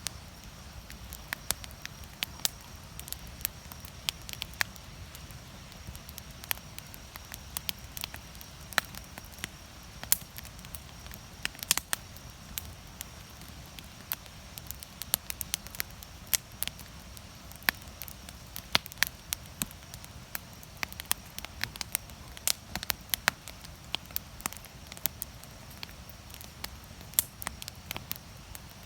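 Wood campfire piled high with firewood, crackling: a steady low rumble of flames with frequent irregular sharp pops and snaps.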